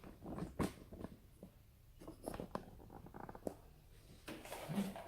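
Scattered light clicks, taps and rustles of handling, from the camera being repositioned and the water-filter unit being moved.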